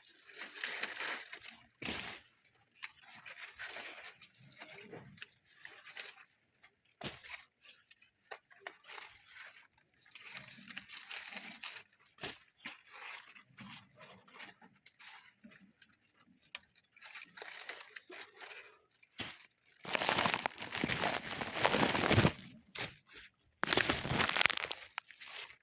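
Irregular rustling and crunching noises, like dry material being handled or torn, with two louder stretches of rustling near the end.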